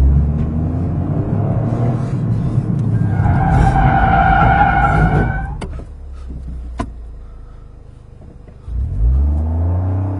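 Car moving with its engine running. About three seconds in, a high-pitched squeal sets in and lasts about two seconds: an abnormal noise from the left front wheel after drift practice, which a dealer later put down to something caught in a rotating part. The sound then drops away for a couple of seconds and the engine comes back near the end.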